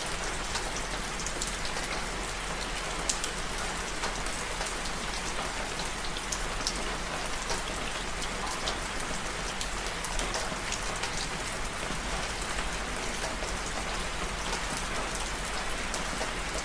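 Steady rain falling, a continuous hiss with many scattered small sharp ticks.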